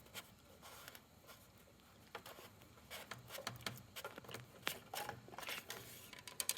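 Faint scattered clicks and rubbing of the oil dipstick being pushed into and drawn out of a mower's dipstick tube to read the level.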